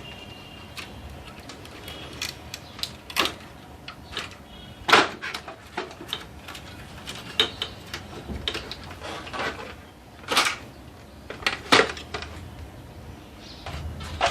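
Irregular clicks, knocks and clatter from handling the parts of a Canon Pixma MP230 inkjet printer being taken apart. The loudest knocks come about five, ten and twelve seconds in.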